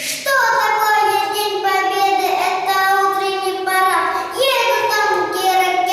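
A boy singing a song in a high child's voice, holding long notes.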